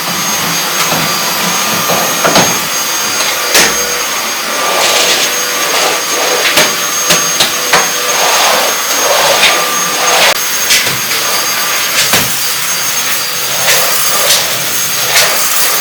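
Vacuum cleaner running steadily with a constant whine, with frequent short knocks and clicks as the nozzle bumps against surfaces.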